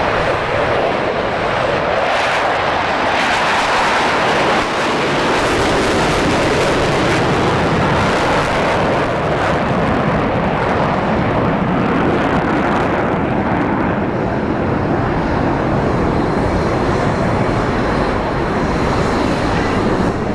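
Loud, steady jet engine noise from Blue Angels display jets in flight.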